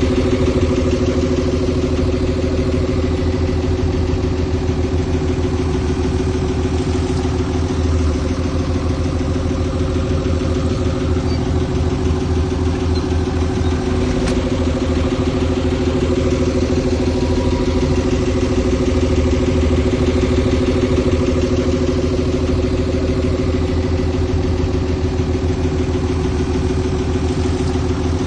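Heavy earthmoving machine's diesel engine running steadily with an even, unchanging hum and a low rumble.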